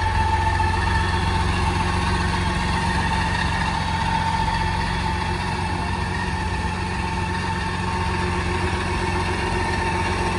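BMW K1600 motorcycle's inline six-cylinder engine idling steadily.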